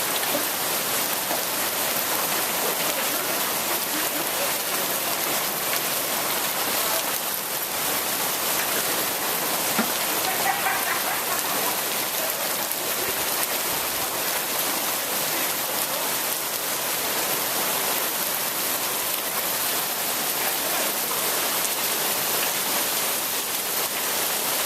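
Moderately heavy rain with hail mixed in, a steady dense hiss of drops and hailstones hitting the ground and surfaces.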